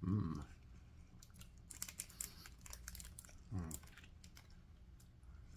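Faint scattered clicks and small mouth sounds of a person chewing a piece of soy slices, a soft soy-based confection. There is a short hum at the start and another about three and a half seconds in.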